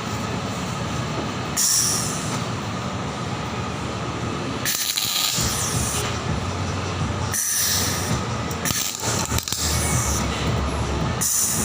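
Arc welding: a steady crackling hiss from the arc, throwing off spatter, broken by several brief gaps where the arc stops and restarts, over a low hum.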